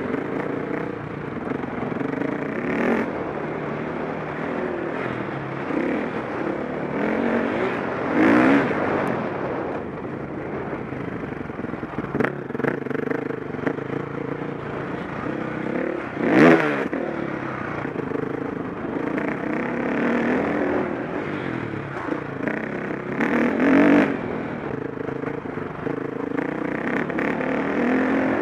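A KTM 525 SX's single-cylinder four-stroke engine running under load, revving up and falling back through the gears as the motocross bike is ridden. There are three short, louder surges a few seconds in, around the middle, and near the end.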